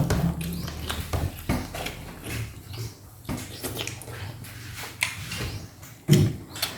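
Close-up chewing and wet mouth smacking while eating roast chicken, with irregular clicks and a louder smack about six seconds in.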